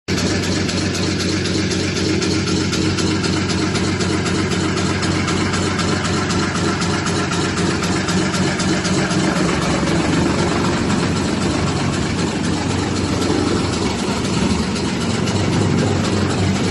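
Big-bag grinder mill with rotary blades running: a loud, steady mechanical drone with a low hum.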